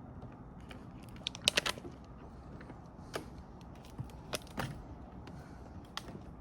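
Footsteps on a wooden boardwalk: irregular sharp creaks and knocks from the boards, the loudest cluster about one and a half seconds in. A faint steady low rumble sits under them.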